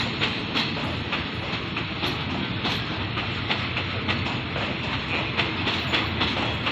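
Diesel-hauled passenger train pulling slowly out of a station with a steady rumble. Its wheels click over the rail joints a few times a second, often in pairs.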